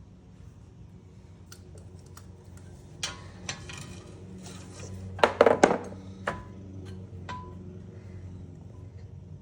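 Metal parts and tools clanking and clinking while suspension parts are handled: a few sharp clicks about three seconds in, then a loud cluster of clanks a little past halfway, with brief ringing after them. A steady low hum runs underneath.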